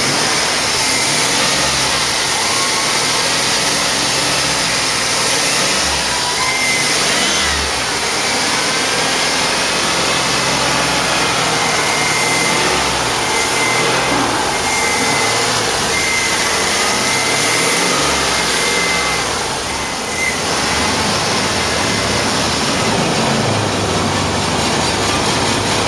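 2003 Chevrolet Avalanche's 5.3-litre V8 running in gear with its front and rear axles turning. A loud, steady mechanical noise, with a thin high whine through the middle stretch.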